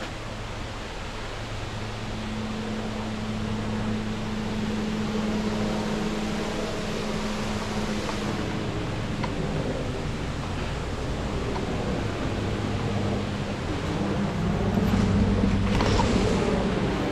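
Waterfall: a steady rush of falling water that grows louder toward the end, with a faint low hum underneath.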